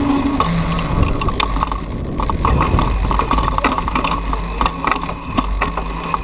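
Razor MX500 electric dirt bike riding, its chain-driven electric motor giving a steady whine, with frequent rattles and knocks from the bike over rough ground.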